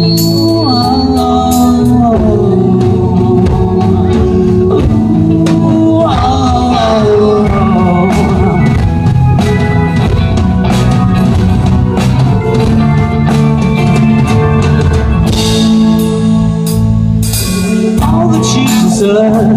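A live rock band playing an instrumental passage between vocal lines, with drum kit and bass under a gliding melodic lead line.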